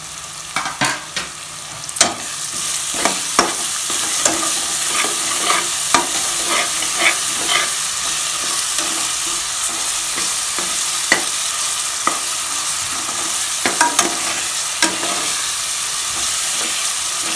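Chopped onions, ginger-garlic paste and green chillies sizzling in hot oil in an aluminium pressure cooker while a metal spatula stirs them, scraping and clicking against the pan. The sizzle grows louder about two seconds in.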